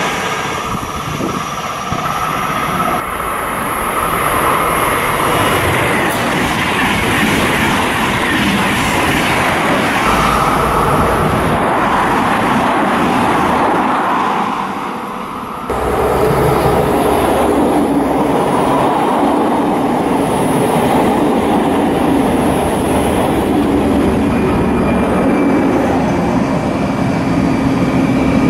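Trains passing through a station in turn. First a TGV Duplex double-deck high-speed train rushes past, then a Régiolis electric multiple unit runs through with wheel and rushing air noise. From about halfway on, an SNCF BB 67400 diesel locomotive approaches with a steady engine hum.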